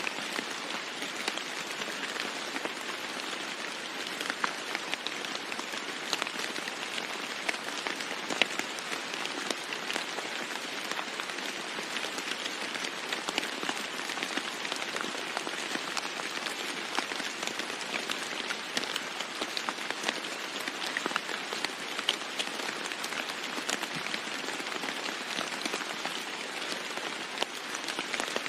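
Steady heavy rain falling on a roof, an even hiss with many separate drop strikes ticking through it.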